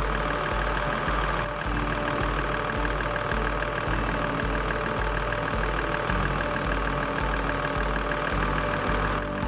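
Toyota Land Cruiser 80's engine idling steadily, with a low pulse about twice a second.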